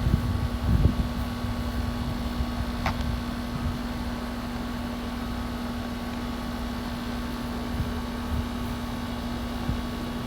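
Wind rumbling on the microphone over a steady low mechanical hum, the rumble strongest in the first second. About three seconds in, a short high sound falls quickly in pitch.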